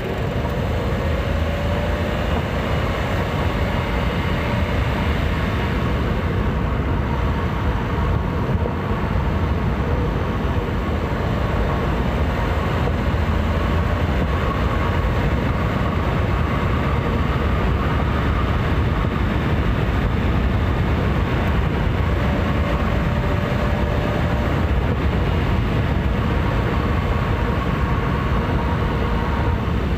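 Daihatsu Rocky 1.0 turbo three-cylinder engine heard through a microphone in the engine bay, running steadily at highway cruising speed. A faint steady whine sits over the dense running noise.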